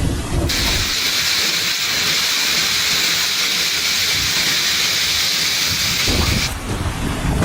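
Steady, even hiss of heavy rain pouring down, cutting in abruptly about half a second in and out again near the end. Rumbling wind buffeting the microphone is heard around it.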